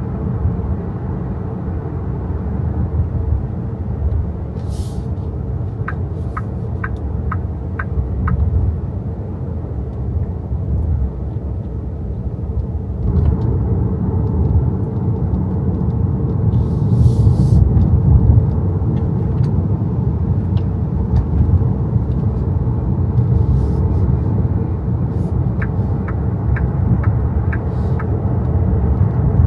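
Inside the cabin of an XPENG G6 electric SUV while driving: a steady low road and tyre rumble, swelling a little about halfway through. Twice, a short run of about six quick, high ticks.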